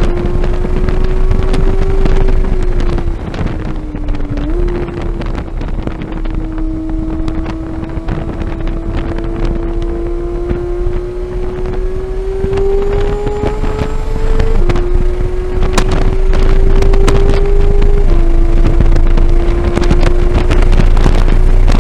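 2015 Porsche 911 GT3's naturally aspirated flat-six engine under hard acceleration on track. Its note climbs steadily through the revs, jumps up at a downshift about four seconds in, and drops at two quick upshifts later on, with wind noise over the microphone.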